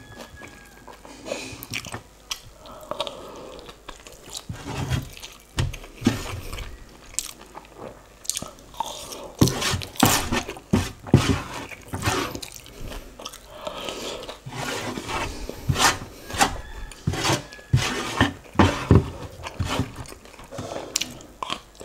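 Close-miked chewing and crunching of instant noodles dressed in chili oil, with frequent short crunches. Wooden spoon and fork click and scrape against a metal tray.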